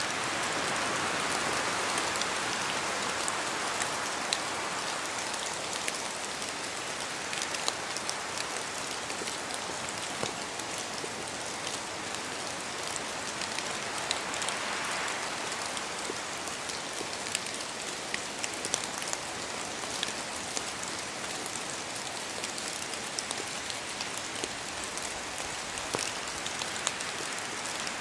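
Steady rain falling in a forest, with scattered single drops tapping from the trees. A gust of wind swells near the start and again about halfway through.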